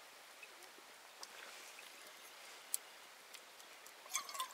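Quiet steady hiss of the surroundings, broken by a few sharp isolated clicks, the loudest a little after halfway, with a short patch of light clattering near the end.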